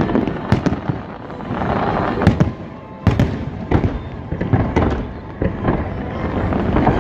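Aerial fireworks bursting in quick succession: sharp booms over a steady low rumble, with a dense run of small crackling pops about two seconds in.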